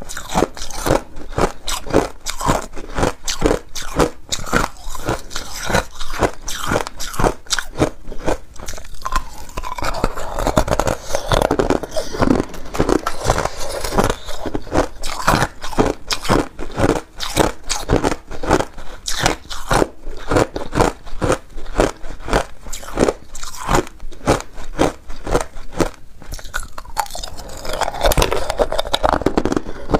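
A person chewing hard ice and crushed ice close to the microphone: a rapid, continuous run of sharp crunches, several a second, as the ice is bitten and ground between the teeth.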